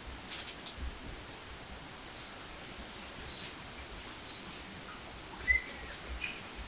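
Small birds chirping outdoors: short high chirps about once a second, then a sharper, louder chirp about five and a half seconds in, over a quiet background hush.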